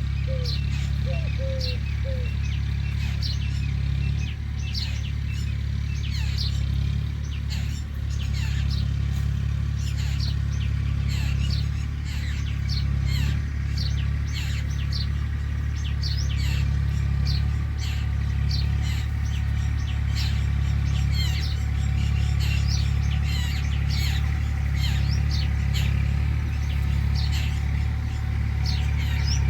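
Many small birds chirping in quick, overlapping high notes throughout, over a steady low rumble. A dove gives a few low coos in the first two seconds.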